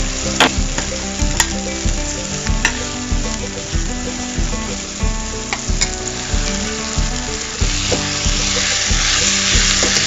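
Onion, tomato and peanuts sizzling as they fry in oil in stainless steel pans, with a spoon clicking against a pan a handful of times. The sizzle gets louder near the end as the tomato and onion are stirred.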